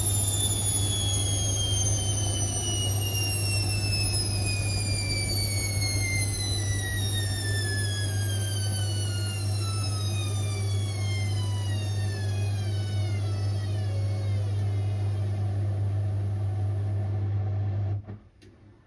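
Indesit IWC6165 washing machine winding down from a spin: the motor's whine falls slowly in pitch as the drum slows, over a steady low hum, and everything cuts off suddenly near the end.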